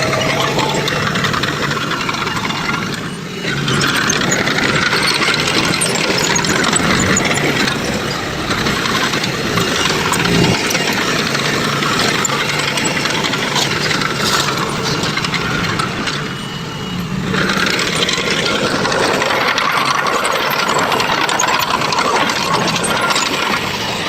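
Heavy diesel construction machinery running at a work site, a loud, steady engine with rattling. It eases off briefly twice, a few seconds in and again about two-thirds of the way through.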